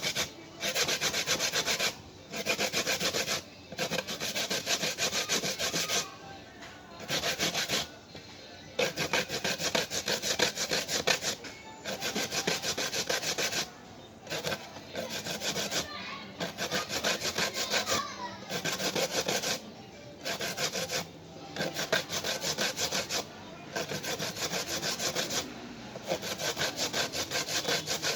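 Coconut being grated by hand on a grater: spells of quick rasping strokes, each lasting a second or two, with short pauses between them.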